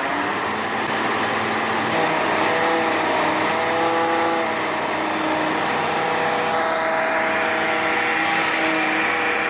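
A heavy truck's engine running hard and steady, its pitch drifting slightly up and down.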